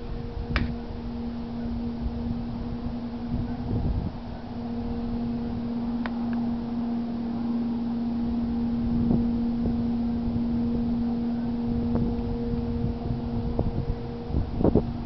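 Unidentified steady low-pitched drone with a fainter higher overtone, held without a break. It carries over a low rumble of wind on the microphone.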